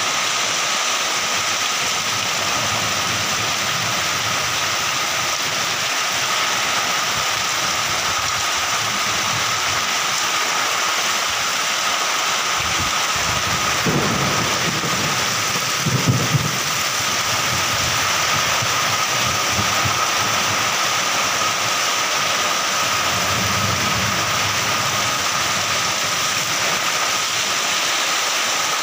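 Heavy rain pouring steadily onto bare earth and a plastic tarpaulin, with low rumbles of thunder about halfway through and again near the end.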